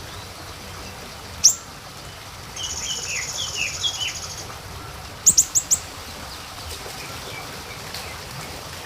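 Small songbirds calling: a single sharp high chirp, then a buzzy high trill with a run of short falling whistles under it, then four quick sharp chirps, over a steady background hiss.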